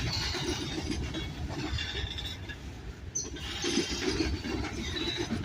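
Manifest freight train's cars rolling past, a steady rumble of steel wheels on rail with irregular clanks and faint high wheel squeal.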